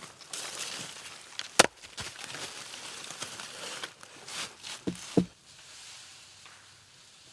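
Sticks and bark being handled: bouts of rustling and scraping, one sharp snap about a second and a half in, and two knocks about five seconds in, after which it goes quieter.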